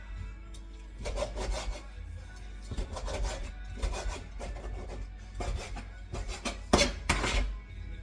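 Repeated rough scraping strokes at an irregular pace, the loudest two near the end, over background music.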